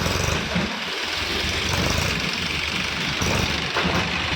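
Eicher tractor's diesel engine running steadily.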